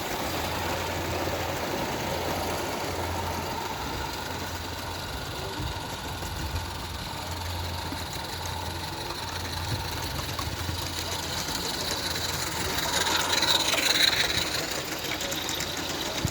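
Roundhouse Russell live-steam garden-railway locomotive running with a mixed goods train. The working sound is steady and grows louder for a moment near the end.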